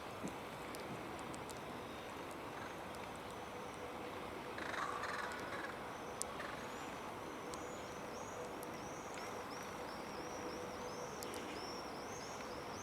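Birds chirping against quiet outdoor background noise, with a rapid, repeated run of short high chirps from about six seconds in. A faint steady hum runs underneath.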